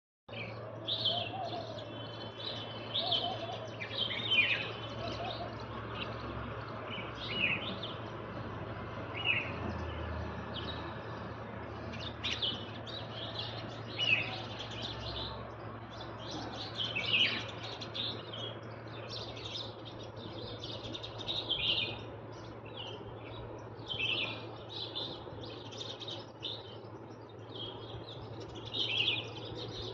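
Small birds chirping, with many short, sharp calls following one another throughout and coming thicker in the second half, over a steady low hum.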